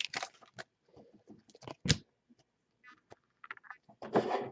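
Trading cards being handled and flipped through: soft scattered clicks and rustles, with a sharper click about two seconds in and a brief louder rustle near the end.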